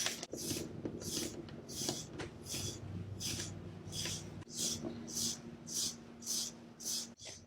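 Equigroomer de-shedding brush raked through a cat's coat in regular strokes, about two a second, pulling out a heavy load of shed fur.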